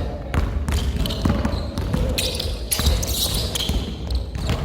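A basketball dribbled on a hard court floor, bouncing at an irregular pace, with short high squeaks from sneakers on the court.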